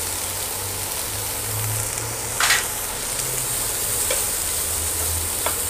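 Mixed vegetables sautéing in a little oil in a nonstick kadai: a steady gentle sizzle as masala is added and the pan is stirred. One short louder noise about two and a half seconds in.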